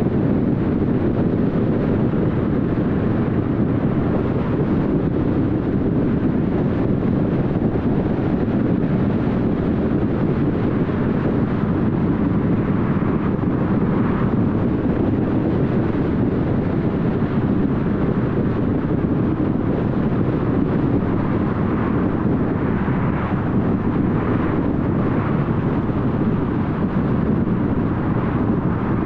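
A car driving along at steady speed: even, unbroken road and tyre noise with the engine underneath, with slight swells in the upper hiss now and then.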